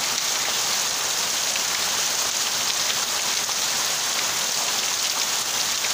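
Heavy rain pouring down steadily, an even, unbroken hiss of falling drops.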